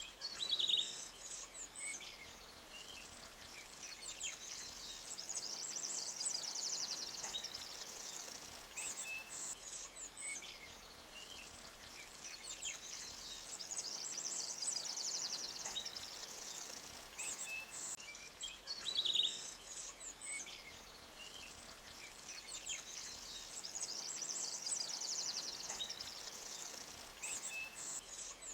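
Forest birdsong: high, rapid trills swell and fade every few seconds, with short chirps between them and a sharp call about a second in and again about 19 seconds in. Underneath is the faint, steady wash of a shallow creek running over rocks.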